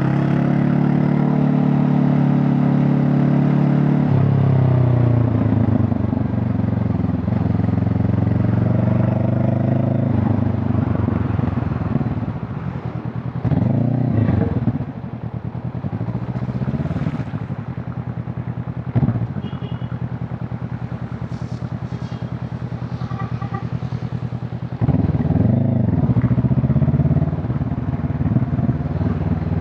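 Honda CB500 Hornet's parallel-twin engine and exhaust on the move: steady at first, dropping in pitch at a gear change about four seconds in and then climbing again, easing off and quieter through the middle, and pulling harder and louder again near the end.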